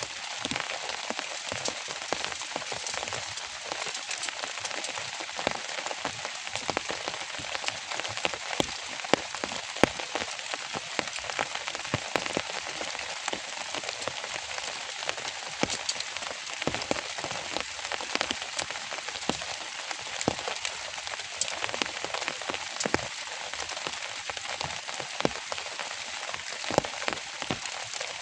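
Steady rain, an even hiss dotted with many sharp, separate drop hits.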